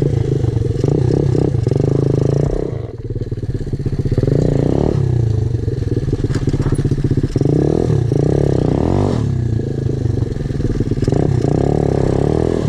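Pit bike's small single-cylinder four-stroke engine running under load while being ridden, the throttle rolled on and off so the pitch swells and falls several times. There is a short drop about three seconds in.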